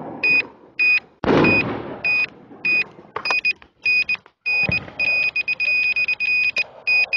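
Fireworks going off close by, loud bangs with crackle, the loudest about a second in. Throughout, a high electronic beep repeats about twice a second and runs almost without a break near the end.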